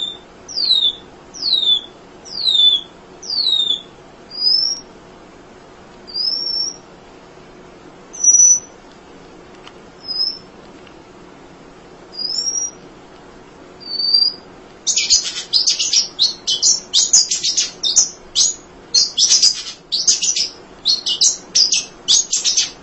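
Emprit (munia) singing: a run of thin high falling whistles, about two a second, then single rising whistles a couple of seconds apart, then a bit past halfway a fast, continuous twittering chatter.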